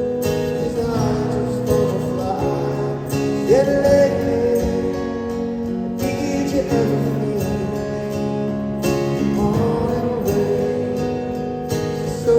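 Live rock band playing a song, with a sung vocal melody over guitars, recorded from the audience.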